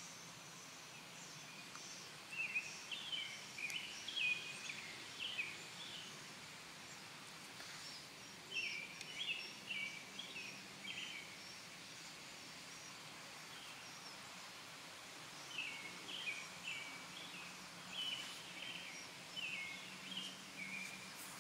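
A songbird sings three bouts of quick, chattering phrases of several notes each, with thin high chirps in between, over a faint low steady hum.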